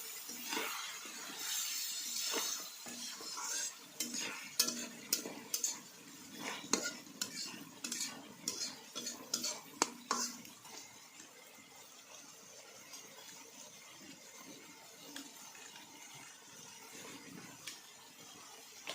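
A metal spoon stirring food in a cooking pot, clinking and scraping against the metal, over a light sizzle of frying. The hiss is strongest at the start, the clinks come thick through the middle, and then it goes quieter.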